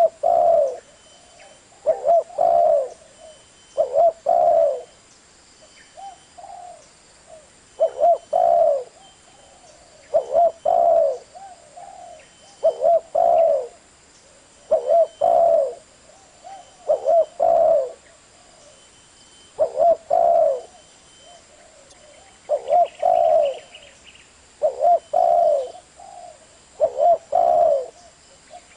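Spotted dove cooing: short phrases of two or three low, mellow coos, repeated about every two seconds.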